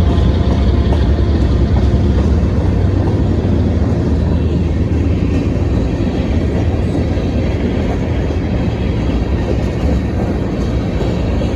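A train rolling past: a steady low rumble of railcars on the track.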